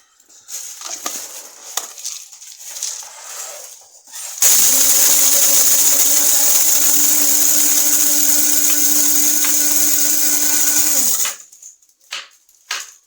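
Hamilton Beach 80350R blade coffee grinder grinding coffee: a loud, steady motor whir that starts about four seconds in, runs for about seven seconds and cuts off abruptly. Light rattling and clicks come before it and after it.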